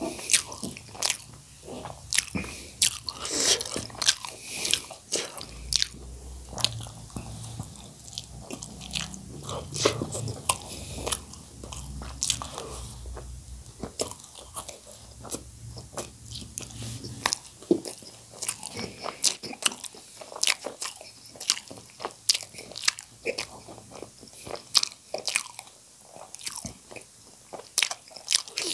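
Close-miked eating of spicy instant noodles and spice-coated boiled potatoes: chewing and biting with an irregular, constant run of sharp mouth clicks and smacks.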